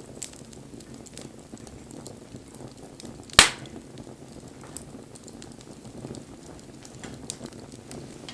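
Wood fire burning with a low steady rush of flame and scattered sharp crackles, and one loud pop a little over three seconds in as the burning wood snaps.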